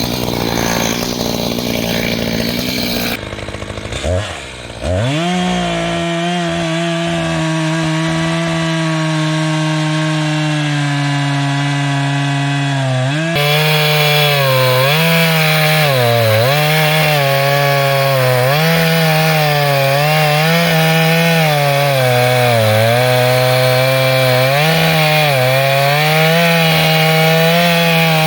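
Reciprocating saw (Sawzall) spinning up to a steady whine about four seconds in, then cutting into a log from about halfway, louder, its motor pitch dipping again and again as the blade bogs down under load.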